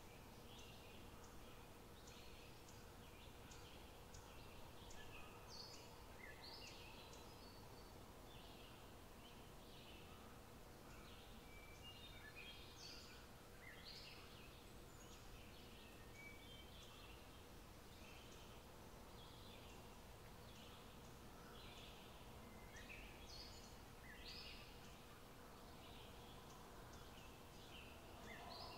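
Faint outdoor ambience with many short, high bird chirps scattered throughout, over a faint steady hum and low background noise.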